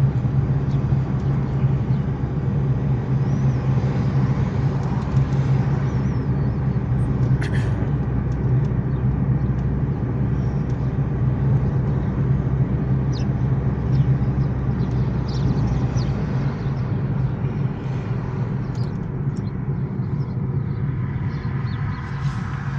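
Steady rumble of a car driving along a road, heard from inside the cabin, with a few light ticks and knocks now and then.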